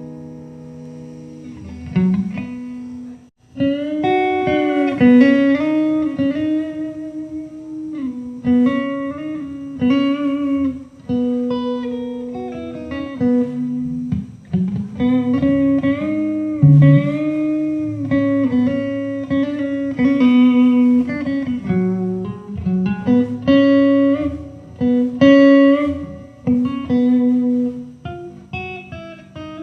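Solo guitar playing a melodic instrumental, plucked single notes with bent, sliding pitches over lower sustained notes.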